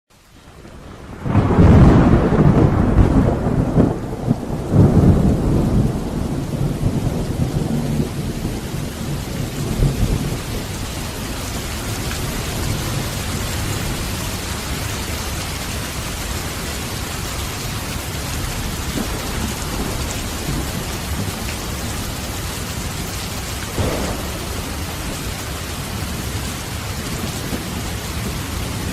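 Thunderstorm recording: steady heavy rain, with thunder rumbling loudly for the first few seconds after a fade-in and a shorter rumble near the end.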